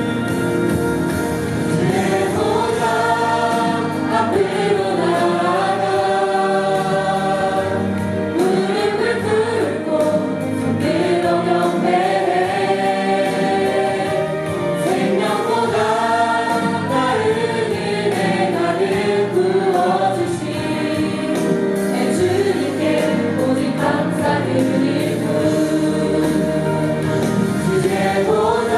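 Choir singing a gospel worship song with instrumental accompaniment.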